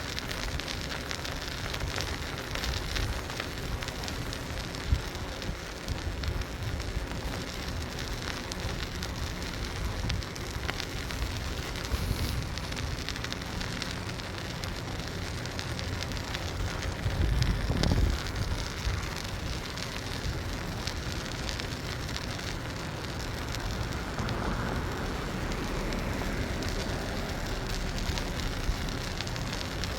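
Steady crackling rush of wind on the microphone mixed with the rolling noise of a bicycle being ridden. About halfway through there is a brief louder low rumble.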